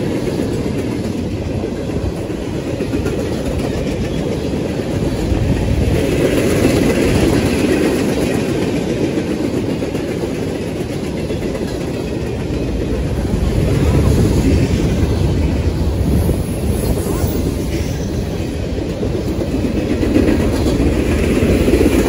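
Freight cars of a CSX manifest train rolling past at close range: steel wheels running on the rails in a steady low rumble with fine clicking, swelling a few times as cars go by.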